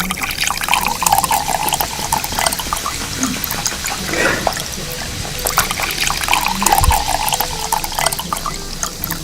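Liquid splashing and trickling, with many small clicks and crackles throughout.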